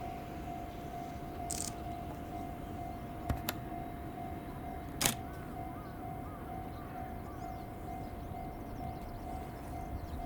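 Railway level-crossing warning signal ringing, a steady repeating tone, while waiting for a train; birds chirp briefly about six seconds in, and there are a few sharp clicks.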